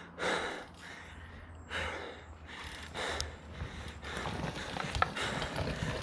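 A mountain biker breathing hard: several loud, breathy exhalations about a second apart over a low rumble. From about four seconds in, scattered clicks and rattles join in.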